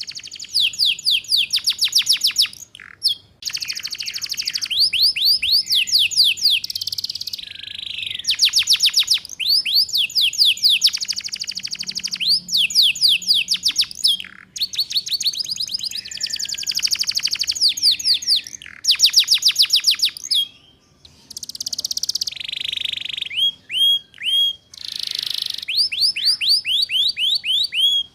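Domestic canary singing in rapid rolling trills: phrase after phrase of fast repeated chirps, each held for a second or two, with a few slower separate upswept notes near the end. This is the fast chirping 'ngeriwik' song used as a master recording to teach young canaries.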